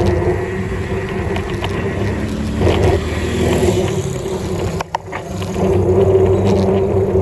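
Steady road and wind rumble from a moving bicycle ride, with a few light clicks and a brief drop about five seconds in.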